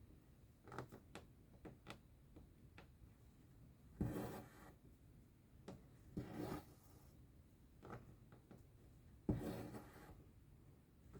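Embroidery thread being drawn through cross-stitch fabric: three separate swishes about two and a half seconds apart, each under a second long, with a few light needle clicks and taps in the first few seconds.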